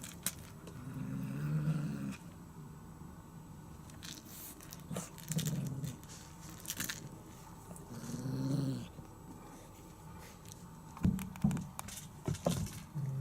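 Kittens growling low during rough play, three short growls of about a second each, with a few sharp clicks near the end.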